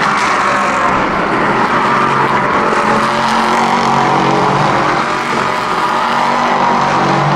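LMP3 prototype race car's naturally aspirated 5-litre V8 running hard, a loud continuous engine note that drifts gently up and down in pitch.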